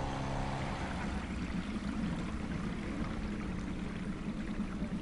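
Water flowing and lapping around a small boat, an even wash of sound over a low steady hum.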